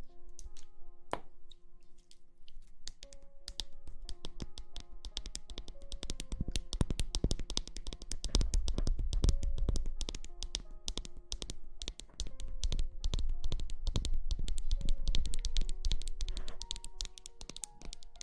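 Close-miked ASMR crackling and tapping, a dense run of rapid rustling clicks that swells louder with a low rumble twice, over soft background music of held notes.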